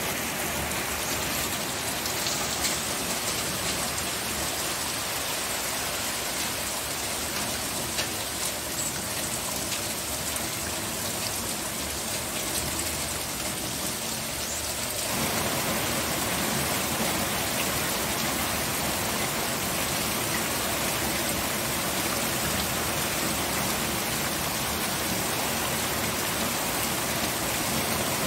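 Steady rain falling, a dense even hiss of drops with a few separate drop ticks. About halfway through it becomes fuller and slightly louder.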